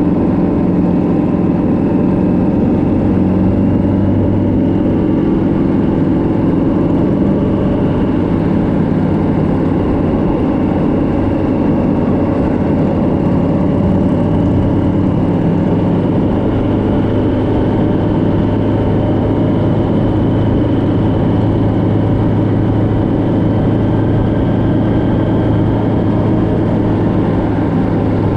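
Motorcycle engine running steadily at cruising speed, its pitch drifting slowly up and down, with wind and road noise.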